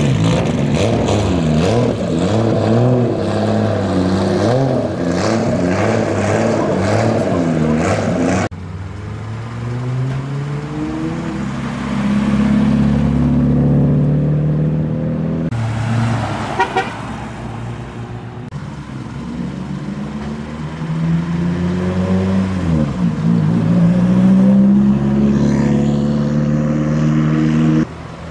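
Car engines of modified show cars running and revving as the cars drive out one after another, with car horns sounding.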